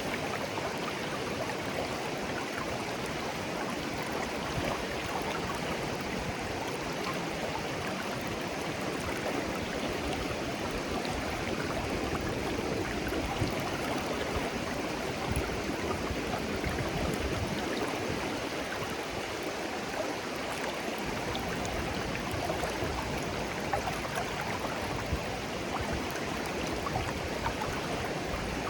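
Shallow, clear stream flowing steadily, a continuous babble of water with small gurgles and splashes.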